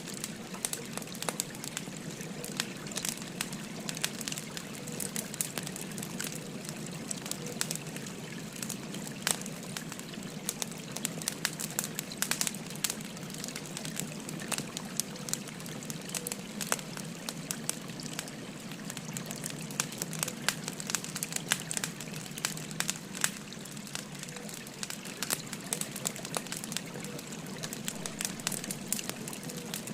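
Burning firewood crackling with frequent sharp, irregular pops, over the steady rush of a babbling river.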